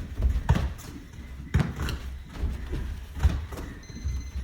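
Soccer ball being struck and caught in a partner passing drill: three sharp thuds, spaced a second or more apart.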